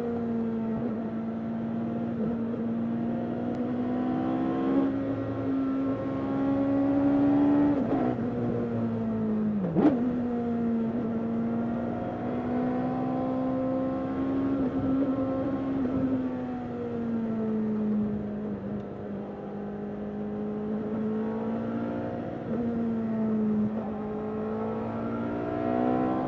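Suzuki Hayabusa inline-four motorcycle engine in a Mk Indy kit car, heard from on board, running at steady road speed. Its note rises and falls gently, with several sudden dips in pitch and a sharp click about ten seconds in.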